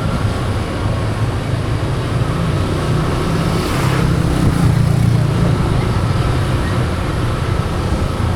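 Motor scooter engine running under way, heard from the handlebars with road and wind noise; the engine note swells in the middle and eases off again.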